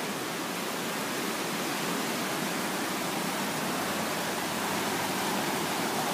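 A brook in flood, swollen by hurricane rain, rushing: a steady, even rush of fast-moving water.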